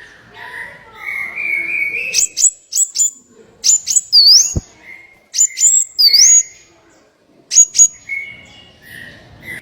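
Small songbirds calling: runs of sharp, very high chirps and whistled notes that dip and then rise, repeated several times from about two seconds in.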